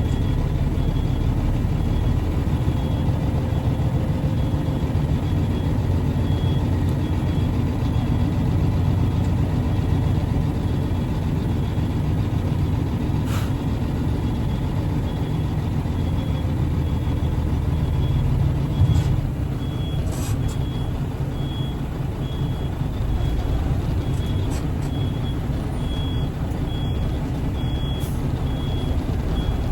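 Diesel dump truck engine idling with a steady low rumble, heard from inside the cab, while a vehicle's backup alarm beeps at a steady pace. A few short hissing or clunking noises come in the middle and near the end.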